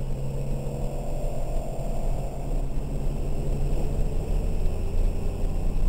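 BMW 330i ZHP's 3.0-litre inline-six running steadily at part throttle, heard from inside the cabin, with a faint rising note in the first two seconds and a steady wash of tyre and road noise from the wet track.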